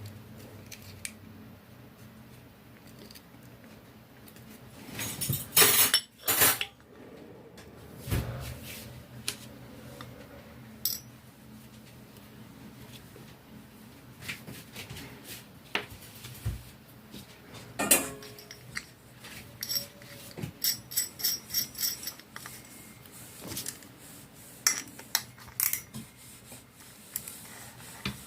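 Metal clinks and knocks from a hand-operated canning seaming key being handled and worked on. There is a louder clatter about six seconds in, a sharp knock near eighteen seconds, and a quick run of about a dozen clicks soon after.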